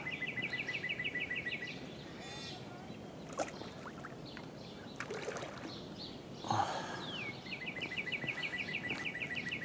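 A small songbird singing twice, each song a falling note that runs into a fast, even trill of about eight notes a second, over steady outdoor background noise.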